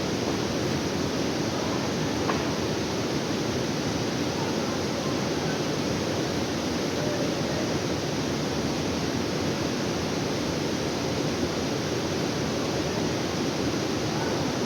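Waterfall rushing as a steady, unbroken noise.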